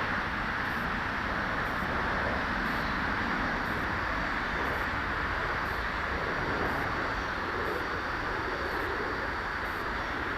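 Electric ducted fans of a Dynam Cessna Citation 550 radio-control model jet in flight, a steady rushing whoosh at constant power.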